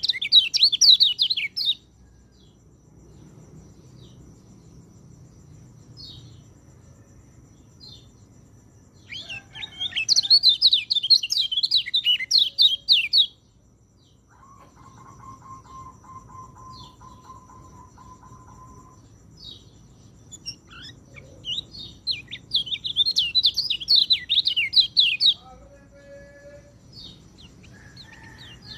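A peleci songbird singing: three loud outbursts of rapid, varied high notes, each lasting a few seconds, with scattered soft single notes between them. A long, steady, lower whistle-like tone is held for several seconds in the middle.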